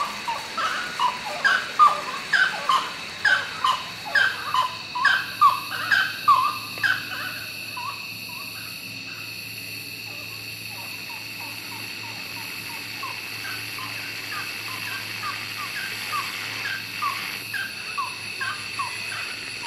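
A bird calling at night in a fast series of short, falling notes, about two a second. The calls are loud for the first several seconds, die away, then return fainter from about halfway on. A steady high-pitched hum runs underneath.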